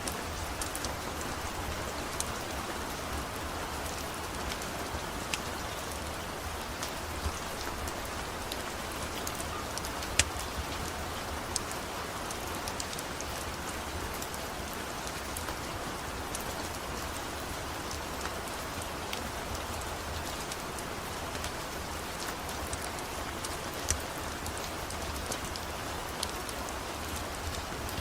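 Steady rain falling, with a few sharp ticks now and then.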